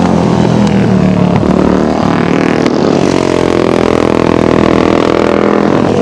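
Several dirt-track racing engines running hard at once as the machines lap the flat track, their pitches shifting with the throttle; about halfway through, one engine's note climbs and then holds high.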